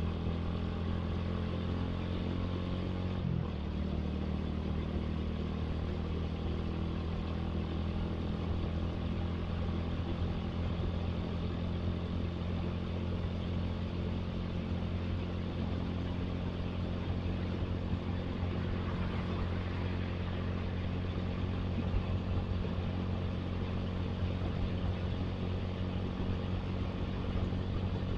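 Motorcycle engine running steadily while riding in road traffic, with a brief change in the engine note about three seconds in.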